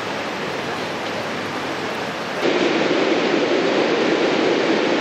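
Steady rushing noise of the flooded Rhine's water, which jumps louder at a cut about halfway through.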